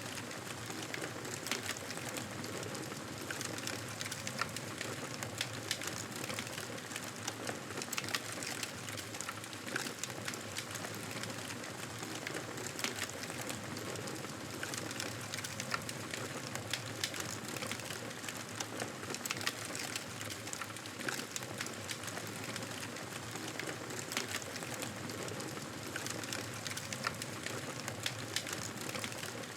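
Wood fire crackling and popping over a steady hiss, with frequent small irregular snaps.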